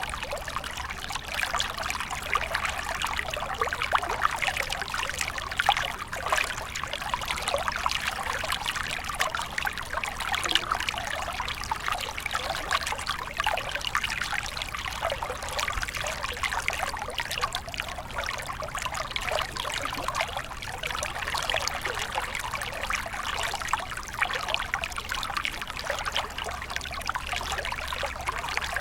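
Small stream of water flowing and trickling, a steady babbling with fine splashes.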